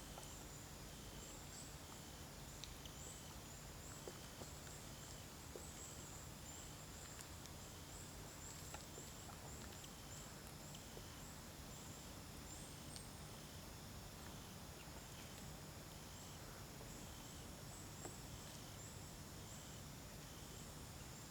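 Faint outdoor ambience: an insect calling in an even, high-pitched pulse, about two calls a second, over a low steady rumble.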